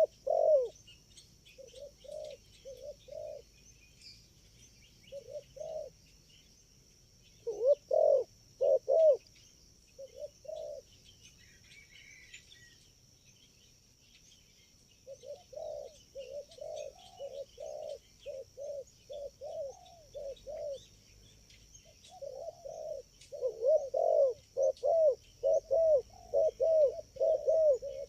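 Spotted doves cooing in short repeated phrases. The calls are sparse at first, pause for a few seconds in the middle, and grow into a dense run of overlapping coos near the end, as if more than one bird is calling.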